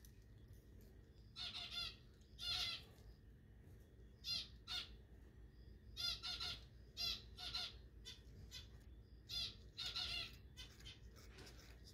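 A bird squawking repeatedly: about a dozen short pitched calls, each a fraction of a second long, at irregular intervals.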